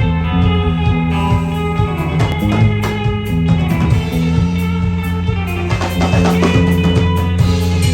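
Rock band playing live: electric guitars over bass guitar and a drum kit with a steady beat. The bass and full band come in right at the start, lifting the level.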